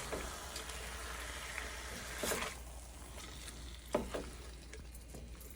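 Chicken pieces sizzling as they fry in a dry pan over a medium-high gas flame, stirred with the spices, with a couple of short knocks of the stirring utensil against the pan. The sizzle eases a little after about two and a half seconds.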